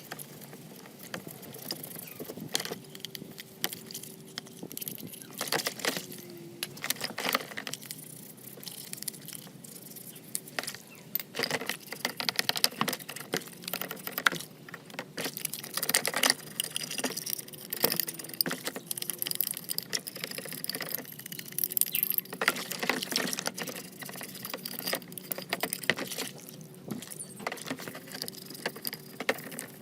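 Irregular clicks, taps and light scrapes of small metal parts being handled and worked.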